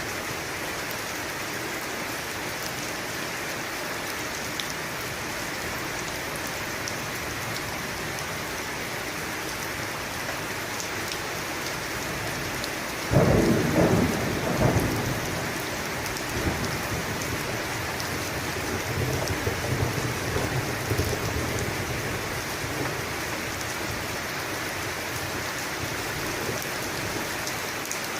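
Steady heavy rain falling, with a sharp thunderclap about halfway through that rolls on as a low rumble for several seconds.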